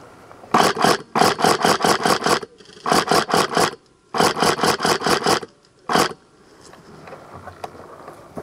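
Tokyo Marui next-generation electric HK416D airsoft rifle firing on full auto: a short pair of shots, then bursts of about eight, five and eight shots at roughly seven a second, and one last single shot about six seconds in.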